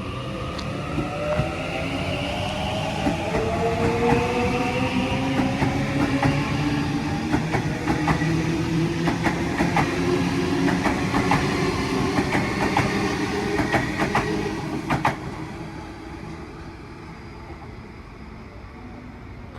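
Sydney Trains electric train moving through the station. A whine falls in pitch over the first several seconds, then the wheels clack over rail joints for several seconds before the sound fades away.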